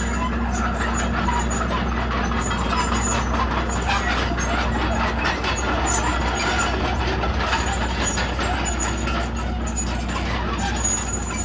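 Komatsu D31PX bulldozer's diesel engine running steadily under work, with the clatter and clank of its steel tracks.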